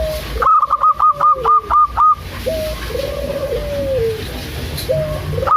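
Zebra doves (perkutut) cooing: a quick run of about seven short, higher notes from about half a second in, another run starting near the end, and between them longer, lower coos that fall away at the end.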